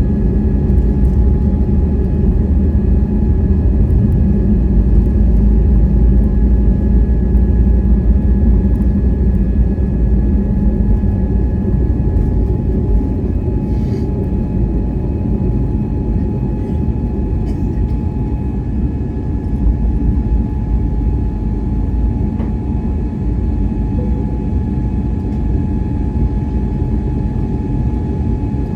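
Airbus A321neo jet engines and airflow heard from inside the cabin: a steady, loud low rumble with a faint steady whine above it.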